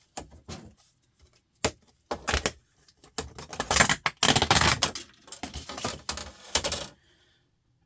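Clatter of small laptop parts being handled and tossed into piles: a run of quick clicks and clinks, thickest in the middle few seconds, then stopping shortly before the end.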